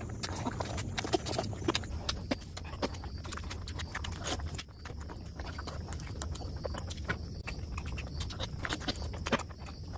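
Close-miked wet chewing and lip-smacking on a mouthful of curried meat, with many irregular sharp mouth clicks.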